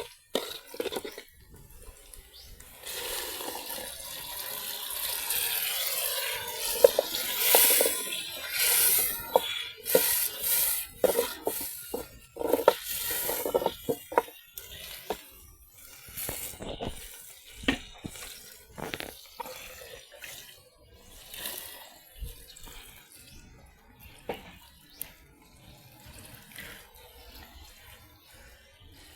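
Water splashing and pouring for about ten seconds, with many small clinks and knocks like dishes or utensils being handled, then only scattered knocks.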